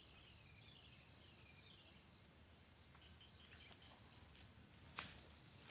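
Faint, steady high-pitched trilling of insects, with a run of soft falling chirps in the first two seconds and a single sharp click about five seconds in.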